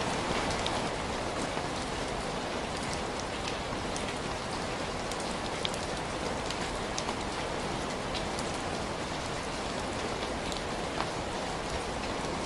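Steady rain falling, an even hiss with many scattered sharp ticks of drops striking a surface.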